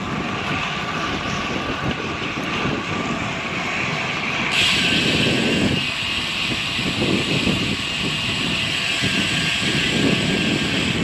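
Wind buffeting the microphone of a camera on a moving road bike, a steady rushing noise with irregular low gusts, over road and tyre noise. A higher hiss comes in suddenly a little over four seconds in and stays.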